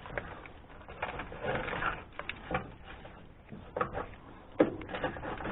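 Scattered light clicks and soft rustling, a few sharper taps about four and a half seconds in: handling noise from someone working by hand.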